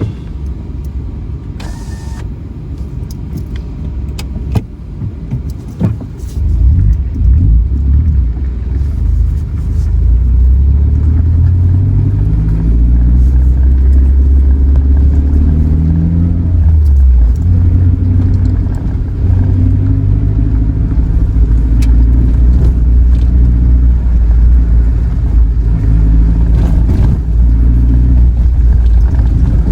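Suzuki Jimny Sierra JB74's 1.5-litre four-cylinder engine pulling along a gravel track, with a heavy low rumble and scattered sharp knocks. The sound builds over the first several seconds, and the engine pitch climbs and steps through the gears from about ten to seventeen seconds in.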